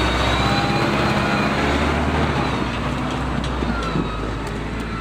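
Heavy timber-loaded truck's engine running steadily while the truck pulls through mud.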